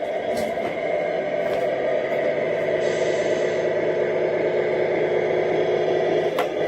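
Tamiya RC scale Cascadia truck running, its steady engine-like drone holding level throughout, with a few light clicks about half a second and a second and a half in and again near the end.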